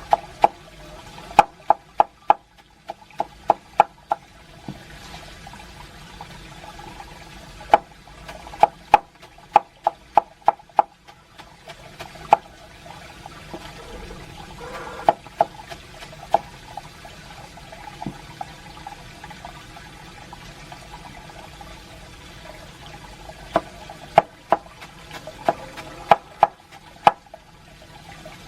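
Water sounds: a steady trickling hiss with many sharp, irregular splashes or drips, in clusters at the start, in the middle and near the end.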